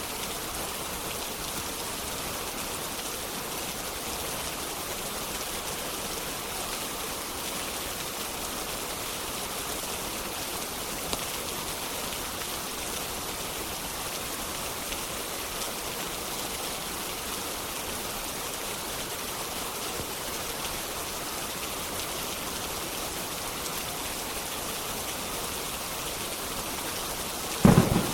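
Steady, even rain. Near the end a sudden loud clap of thunder breaks in.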